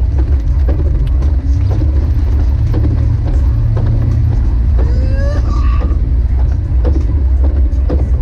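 Jeep Wrangler YJ driving, a loud steady low rumble of engine and road with scattered small knocks. A short rising tone cuts in about five seconds in.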